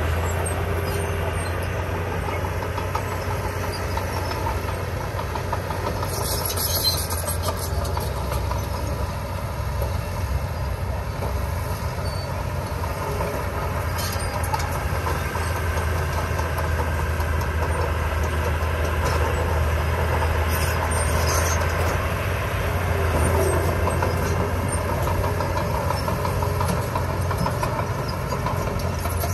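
Diesel engine of heavy earth-moving machinery running steadily, with a few brief high-pitched clicks.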